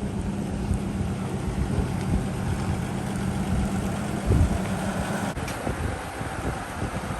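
Toyota Land Cruiser FJ45 pickup being driven, its engine running steadily with wind noise on the microphone; the steady engine note eases off about five and a half seconds in.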